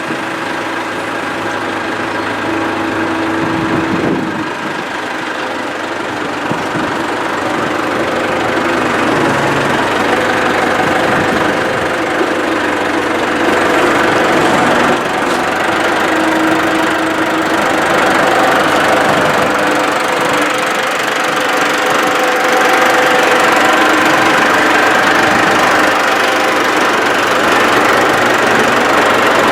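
Tractor engine running under load, its pitch shifting up and down as it works, growing gradually louder.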